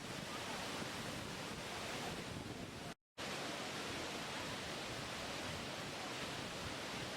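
Waterfall rushing in a steady, even roar of falling water. About three seconds in, the sound drops out to silence for a split second.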